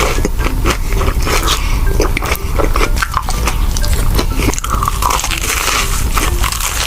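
Close-miked crunching bites and chewing of a fried Korean corn dog in sugar-coated yeast batter: a rapid run of crisp crunches and clicks over a steady low hum.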